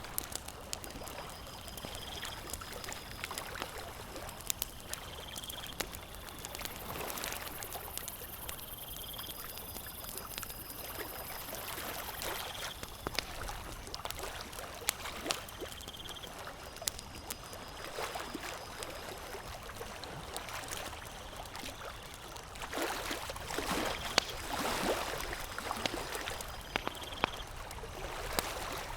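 Campfire crackling with scattered sharp pops, over lake water lapping and trickling that swells into a louder wash near the end. A short, high chirp repeats about every two seconds.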